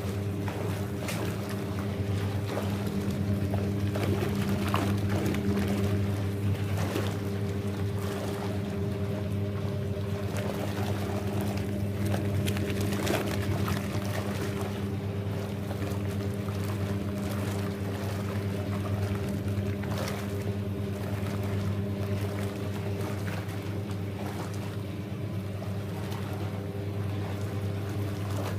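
Hoover 1321A single-tub washing machine from 1968 running: a steady motor hum, with water and towels sloshing as it agitates the wash.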